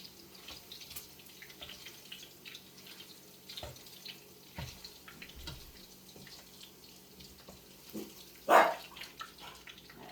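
First batch of chicken pieces frying in hot oil in a wok, the oil still heating: a steady crackle with scattered pops, and one sharp, much louder burst about eight and a half seconds in.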